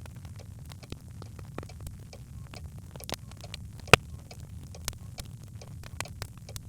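Birch logs crackling in a fireplace: scattered sharp pops, with one much louder pop about four seconds in, over a low steady rumble.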